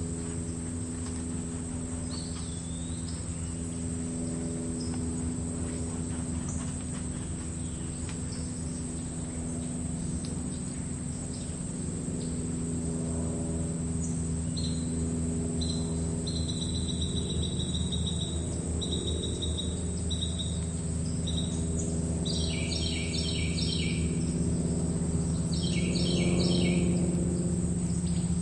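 Meadow ambience: crickets trill steadily and high-pitched throughout, while birds call over them. There are several held whistled notes from about halfway, then bursts of quick repeated chirps near the end, all over a low steady hum.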